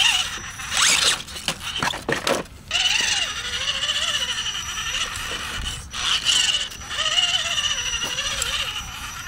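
Scale RC rock crawler's Tekin brushless motor and geared drivetrain whining in stretches of throttle, the pitch wavering up and down as the truck works over rock, with a few knocks and scrapes of tires and chassis on stone.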